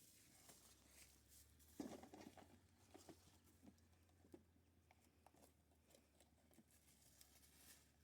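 Near silence with faint, scattered taps and short rustles, a small cluster of them about two seconds in, over a low steady hum.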